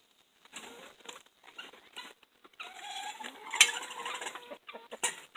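Chickens pecking and scratching at beetles, with scattered sharp taps and one loud tap a little past halfway. A drawn-out chicken call rises slightly over the middle of the stretch.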